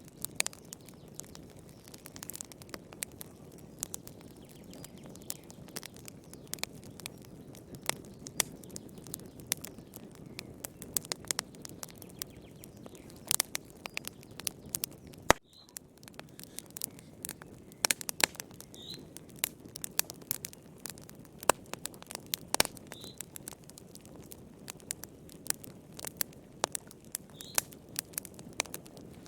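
Wood fire crackling: a steady stream of irregular sharp pops and snaps over a low rush of flames.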